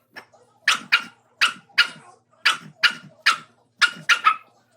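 Pet dog barking at its own reflection: about ten short, sharp barks, mostly in quick pairs, with brief pauses between.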